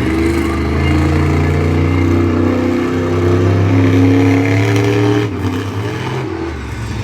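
Monster truck engine revving hard, its pitch climbing and falling under the throttle, then easing back about five seconds in.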